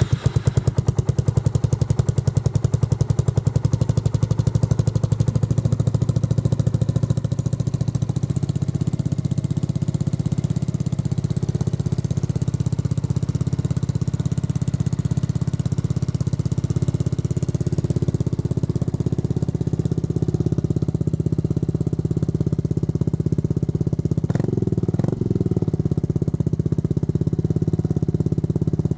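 Yamaha Majesty 250 trike's single-cylinder four-stroke scooter engine idling steadily just after being started, its pulsing beat a little uneven for the first several seconds before settling. A couple of short knocks sound about 24 seconds in.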